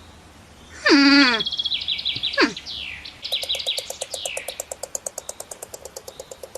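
Birds calling: a falling call about a second in and a run of chirps, then from about halfway a fast, even trill of about eight notes a second.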